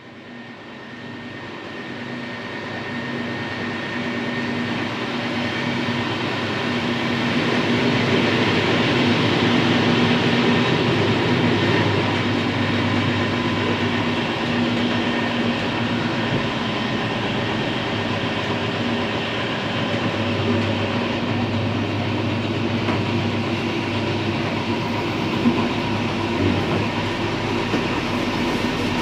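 Electric passenger train running along the track, heard from the front of the train: a steady rumble of wheels on rails with a low hum and faint high tones, fading in over the first few seconds, and a couple of sharp clicks near the end.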